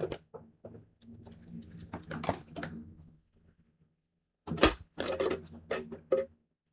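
Craft supplies and tools being handled and set down on a tabletop: scattered clicks, taps and rustles, a pause of about a second and a half, then a louder run of sharp clicks and knocks.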